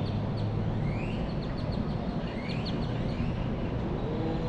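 Birds calling with short rising whistles, about one a second, over a steady low rumble.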